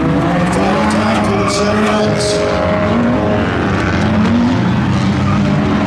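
Several race cars' engines running and revving together, their pitches rising and falling as they pass.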